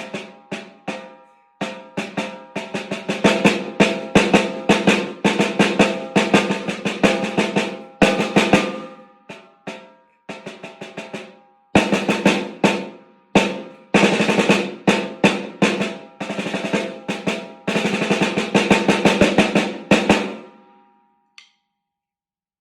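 A beginner's snare drum solo: quick strokes and rolls in phrases separated by brief pauses, stopping about two seconds before the end, followed by a single faint click.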